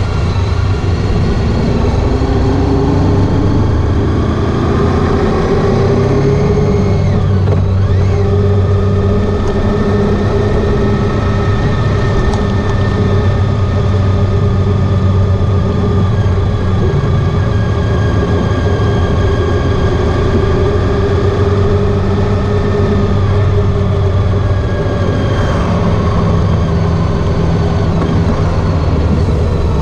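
Honda ST1300 Pan European's V4 engine running under way, its pitch rising as it pulls up through the revs, then holding steady at cruising speed, with a shift in engine note about a third of the way in and another near the end.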